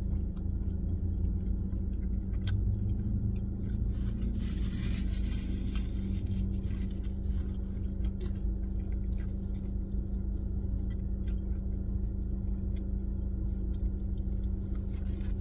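Chewing and small mouth clicks from someone eating a burger, over the steady low hum of a car interior. A brief rustle comes about four seconds in.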